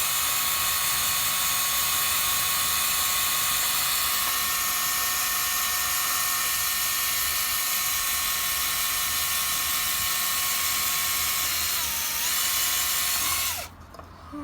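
Electric drill running steadily with a high whine as it bores into a coconut shell; its pitch sags briefly near the end, then it stops suddenly.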